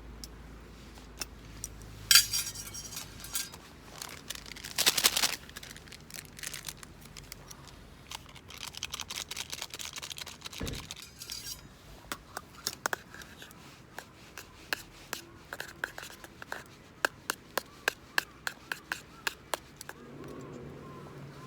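Camp cookware and utensils being handled: clinks and rustling, with a longer scraping burst about five seconds in and a run of sharp clicks in the second half.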